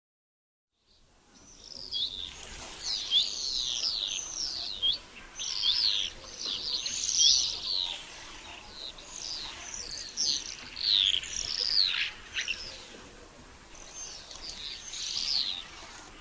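A flock of common swifts screaming: many shrill, high, downward-sweeping calls overlapping one another, starting about a second in.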